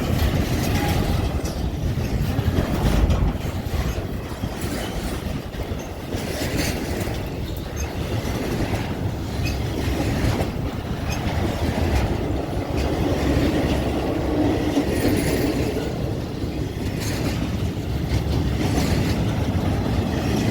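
Eastbound BNSF freight train's cars rolling past: a steady heavy rumble of steel wheels on rail with irregular clacks and knocks.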